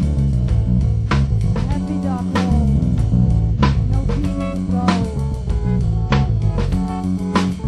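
Recorded hardcore punk band music: loud guitar, bass guitar and drum kit, with heavy accented crash hits about every one and a quarter seconds.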